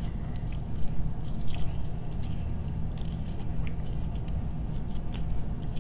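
Close-up eating sounds: chewing and mouth noises of people eating shrimp, with scattered sharp clicks. A steady low hum runs underneath.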